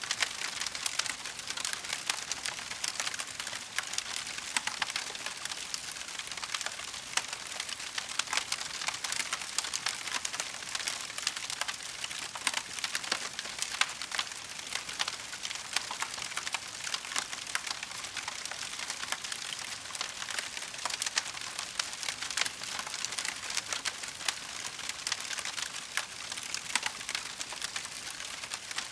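Burning wood fire crackling steadily: a dense run of small pops and snaps over a soft hiss.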